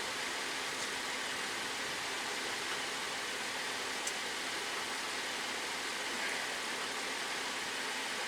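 Steady hiss of background noise with a faint hum under it and a couple of light ticks.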